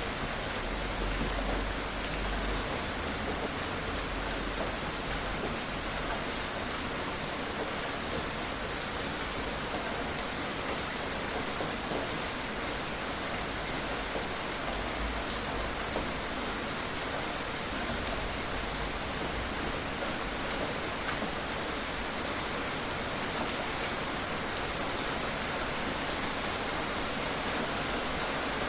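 Steady rain falling on surfaces, an even hiss with scattered individual drop ticks and a faint low rumble at times.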